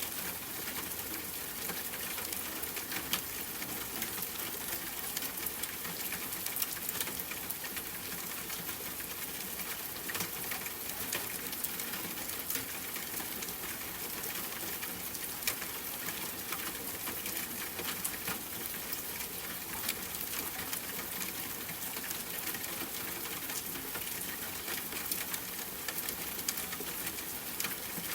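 Steady rain pattering, with a dense scatter of small, sharp drop ticks over an even hiss.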